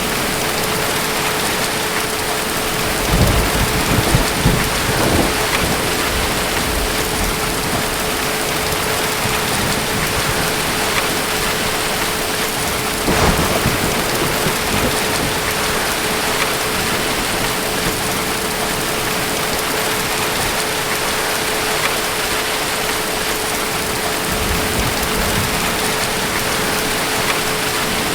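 Steady heavy rain with thunder rumbling low, swelling about three to five seconds in and again briefly around the middle.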